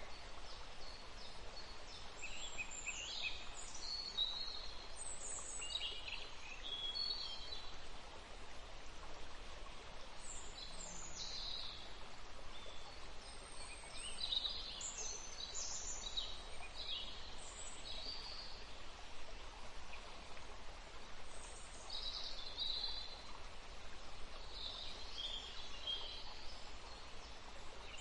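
Birds calling in short chirping phrases that come in clusters every few seconds, over a steady hiss of outdoor background noise.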